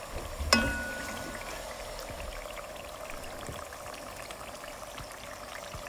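Onion and ginger-garlic paste frying in oil in a pot, a steady bubbling sizzle with fine crackles. About half a second in there is a single click with a brief metallic ring.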